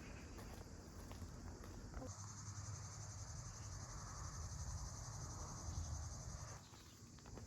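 A cricket trilling: a steady, high, finely pulsed trill that starts about two seconds in and stops about a second before the end.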